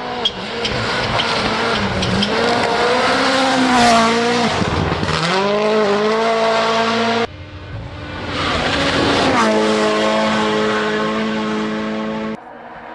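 WRC Rally1 cars' 1.6-litre turbocharged four-cylinder engines driven flat out, the pitch climbing and dropping sharply through gear changes and lifts. The sound breaks off abruptly about seven seconds in and again near the end, switching to another car at high revs.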